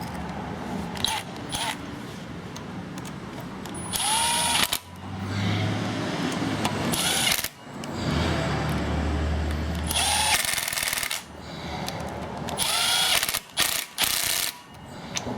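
Cordless impact driver, run on a low setting to drive in engine cover bolts, in a series of runs of a few seconds each from about four seconds in, several starting with a rising whine, the last ones short bursts near the end.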